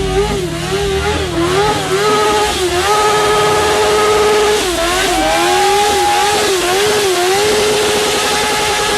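Car engine revved hard and held high in its range, the pitch bouncing and dipping repeatedly and holding flat for stretches, over a dense hiss.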